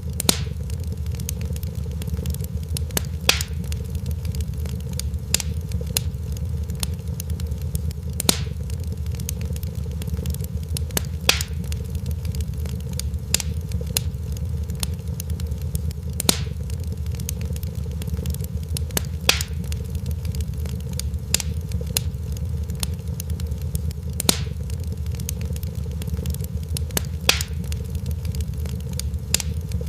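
Crackling fireplace fire: a steady low rumble with a sharp pop every few seconds and many faint ticks between them. The pattern of pops repeats about every eight seconds, like a looped recording.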